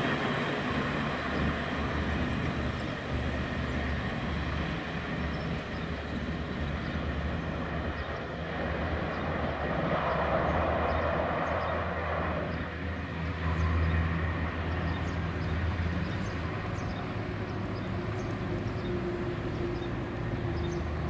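Diesel passenger train moving off along the track: a steady low rumble of engine and wheels, with a louder stretch of noise about ten seconds in.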